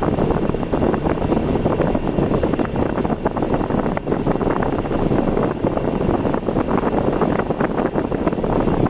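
Car driving on the road: a steady rush of road and wind noise, with constant crackling.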